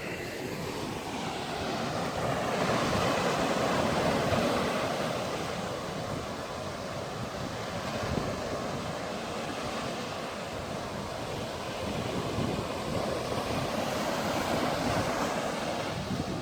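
Surf washing ashore in slow swells, with wind buffeting the microphone.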